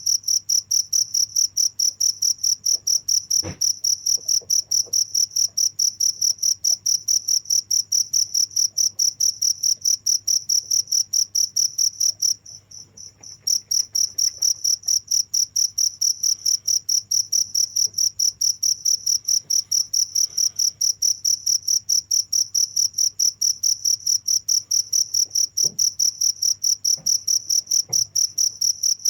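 A cricket chirping in a fast, even run of high-pitched pulses that breaks off for about a second roughly midway, then resumes.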